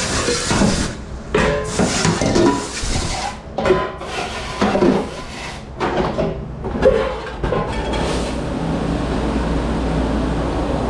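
Dishes and trays clattering and knocking irregularly as they are handled in a commercial dish room, giving way about eight seconds in to a steady machine hum and rush.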